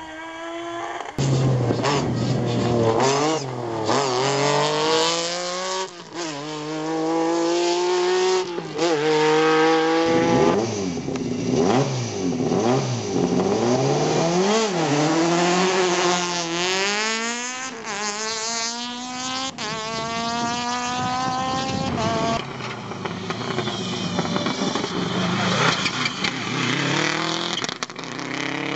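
Rally cars driven hard, engines revving high and dropping back again and again through gear changes. The sound switches abruptly from one car to another several times.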